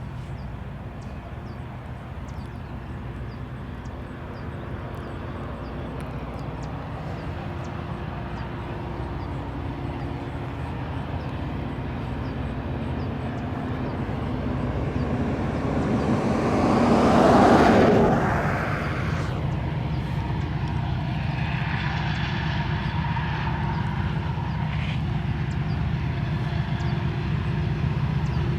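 Diesel freight locomotives approaching with a low, steady engine drone that grows louder and peaks as they pass about two-thirds of the way in, followed by the steady rumble of the train's cars rolling by.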